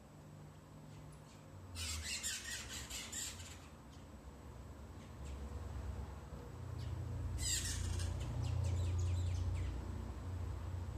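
Birds giving harsh, rapid squawking calls in two bursts, about two seconds in and again about seven and a half seconds in.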